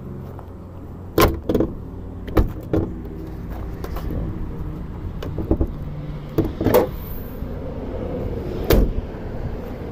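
A Chevrolet Equinox's 2.4-litre four-cylinder engine running at a steady idle. Several sharp knocks and clunks break in at irregular moments over it.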